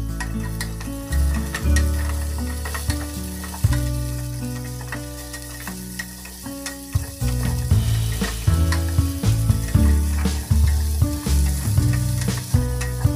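Vegetables sizzling in a stainless steel pot while a wooden spatula stirs them, with many small scrapes and knocks against the pot. Low humming tones that shift in pitch run underneath and are the loudest part.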